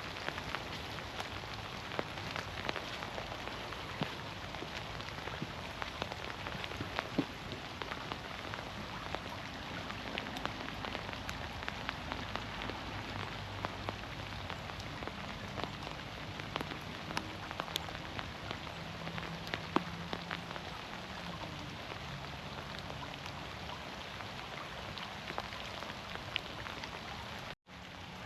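Steady rain falling through forest trees, with many single drops pattering close by. The sound cuts out for an instant near the end.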